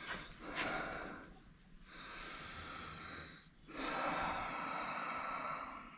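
A man breathing heavily close to the microphone: three long, hissing breaths with short pauses between them.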